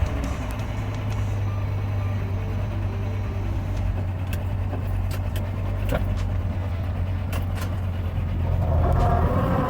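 A motor vehicle engine running steadily with a low hum, with a few sharp clicks in the middle and a rising whine near the end as it picks up revs.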